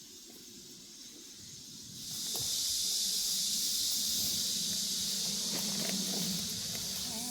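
Chorus of summer cicadas, a steady high-pitched hiss that swells in about two seconds in and then holds.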